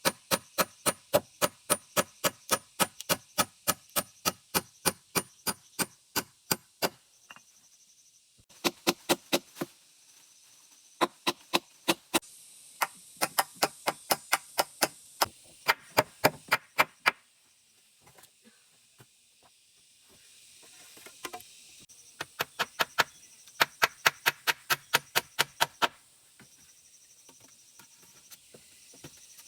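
Rapid, regular chopping or knocking strikes, about three a second, in runs broken by short pauses.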